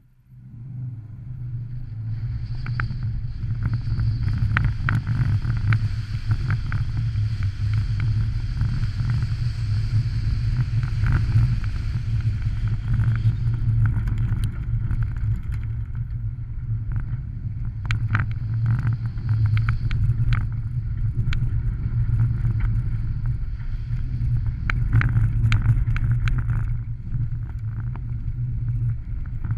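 A rallycross car's engine pulling hard on a loose dirt course, starting up loud about half a second in and running steadily under load. Many sharp clicks and pings of gravel and dirt hitting the car's body throughout.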